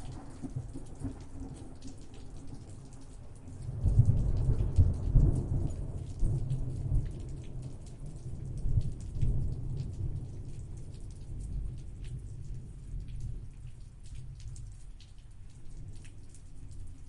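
Thunderstorm: rain falling steadily while a roll of thunder swells about four seconds in, rumbles for several seconds and slowly dies away.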